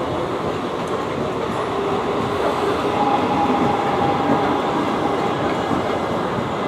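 Mumbai suburban local train running, a steady rumble of wheels on rails, with a faint high tone about three seconds in.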